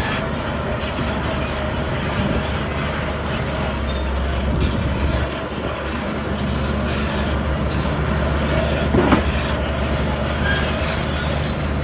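Heavy diesel construction machinery running steadily with a low engine rumble, with a short, louder sound about nine seconds in.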